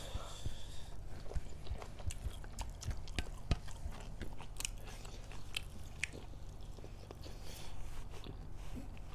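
Chewing and eating pork curry with rice: many small, irregular mouth clicks scattered throughout.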